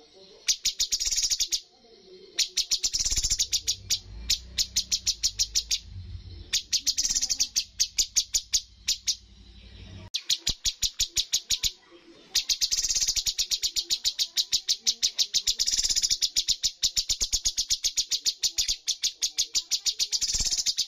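Cucak cungkok singing its rapid-fire 'tembakan' song: long runs of sharp, high, evenly repeated notes, about eight a second, broken by short pauses. A low hum lies underneath for several seconds in the first half.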